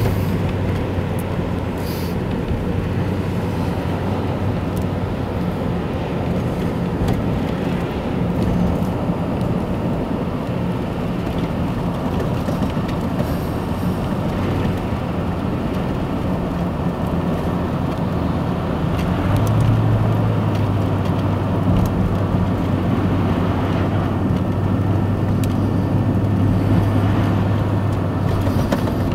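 A car driving, with steady engine and road noise and a low drone that gets louder about two-thirds of the way through.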